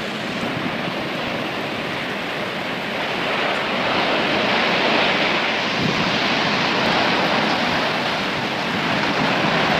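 Tornado winds rushing with a steady roar of noise, growing somewhat louder about three seconds in.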